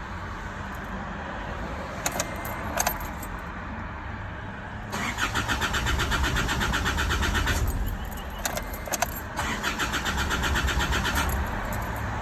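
Starter motor cranking the Isuzu D-Max's diesel engine in two spells, each a couple of seconds of fast, even pulses, with a few sharp clicks before and between them. The engine is being cranked for a hard-start complaint.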